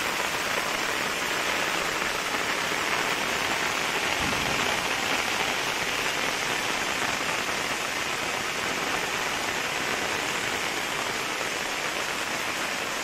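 Steady rain shower falling on a paved street, an even hiss throughout. A brief low thump about four seconds in.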